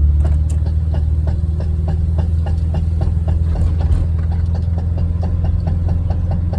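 Volkswagen Vanagon engine running with a steady low drone, over which a regular popping repeats about three to four times a second. The popping comes with the engine under throttle and load, as on uphills, and stops when the gas is released and the revs drop.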